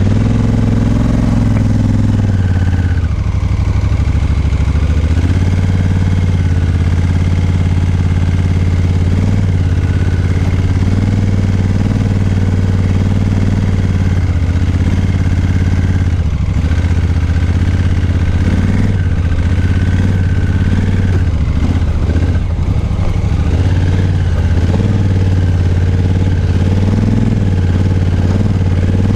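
Adventure motorcycle's engine running steadily at low, fairly even revs while riding a dirt trail.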